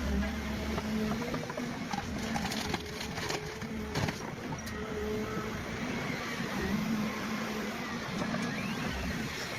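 Heavy machine's engine running steadily, with several sharp knocks and cracks about two to four seconds in as its steel claw tears at a stump and roots in the ground.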